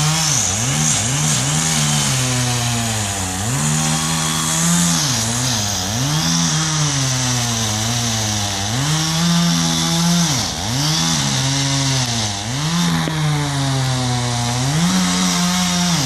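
Gas chainsaw running at high revs, its engine pitch repeatedly dropping and climbing back every second or two.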